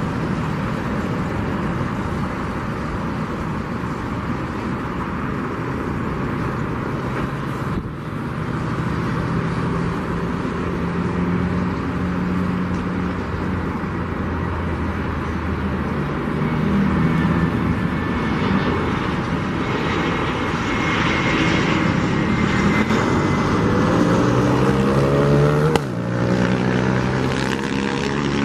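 Jet engines of a Boeing 737-800 (CFM56-7B turbofans) running in a steady rush. The noise grows louder about two-thirds of the way through, and whining tones glide up and down in pitch near the end.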